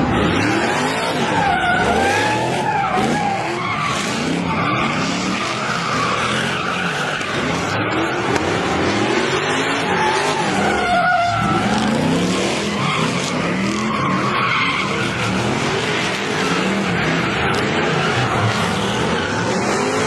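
Sports car doing a burnout: the engine revs up and down at high rpm while the spinning rear tyres squeal with a wavering, whining tone and a constant hiss of rubber.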